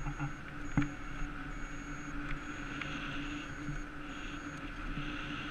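Electric bike riding along: a steady hum from the electric motor over wind and road noise, muffled by the GoPro's waterproof housing, with a high faint tone cutting on and off. A single sharp knock about a second in.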